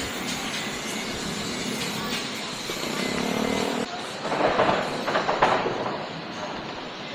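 Steady urban traffic ambience, with a louder stretch about four seconds in that lasts a second or so.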